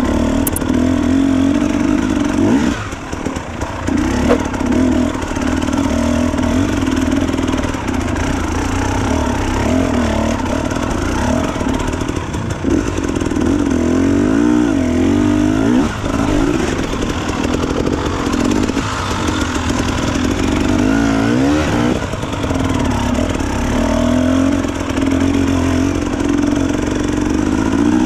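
Dirt bike engine running hard on an enduro trail ride, its pitch rising and falling again and again as the throttle is worked on and off. It eases off briefly about three seconds in.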